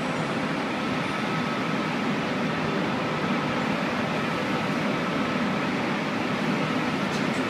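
Steady running noise of a passenger train, heard from inside the carriage: an even rumble and hiss with no clear beats or changes.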